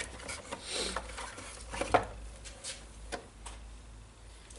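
Scattered light clicks and taps of small parts being handled during a repair, at irregular intervals over a low steady hum.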